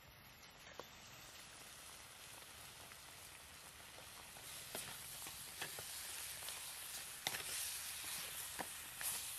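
Pieces of snake and leafy greens sizzling in a hot pot over a wood fire, the sizzle building over the first seconds and growing louder. A few sharp clicks of the spoon knock against the pot as it stirs.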